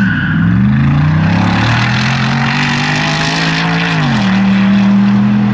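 Mercedes-Benz SLR McLaren 722's supercharged V8 accelerating hard, the engine note climbing over the first second or so and then holding. About four seconds in the pitch drops sharply and settles lower.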